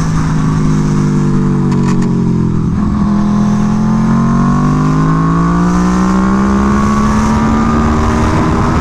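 Aprilia Tuono V4 1100 Factory's V4 engine through an SC-Project exhaust at track speed: the engine note drops for about three seconds, then climbs steadily through a long pull.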